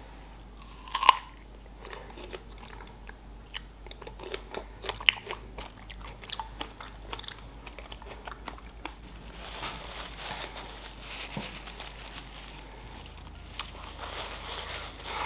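Close-miked bite into a chocolate-coated strawberry, with one sharp snap about a second in, then chewing with many small wet mouth clicks.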